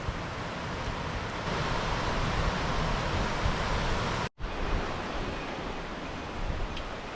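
Steady rushing of a mountain river's water, a little fuller in the middle. It drops out abruptly for a split second about four seconds in, then carries on.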